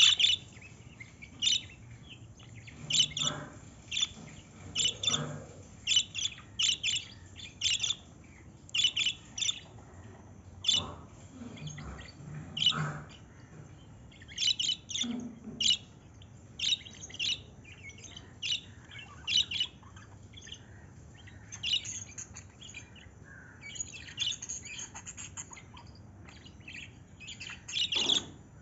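A bird chirping: short, high chirps, singly or in quick clusters, repeating about every second with brief pauses between.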